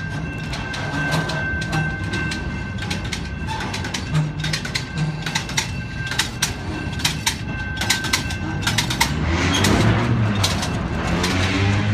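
BNSF intermodal freight train's trailer-loaded flatcars rolling past, steel wheels giving a steady rumble with many sharp irregular clicks as the trucks cross the rail and a grade crossing. A thin steady high ring runs over it, and the rumble grows louder near the end.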